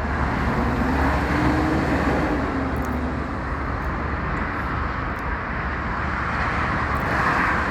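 Heavy truck engine running amid road noise, a steady dense rumble with a low hum. A faint tone rises and falls about two seconds in.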